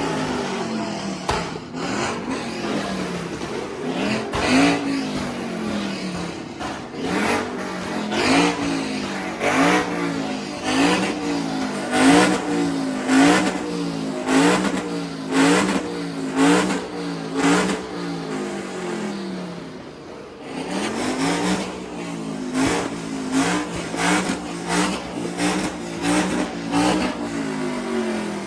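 A tuned Dodge Scat Pack V8 and a Ford Mustang revved hard in a rev battle: quick repeated throttle blips, each pitch sweep rising and falling, with sharp exhaust cracks on the blips. The revs come about once a second through the middle, ease off in a short lull about two-thirds of the way in, then start again.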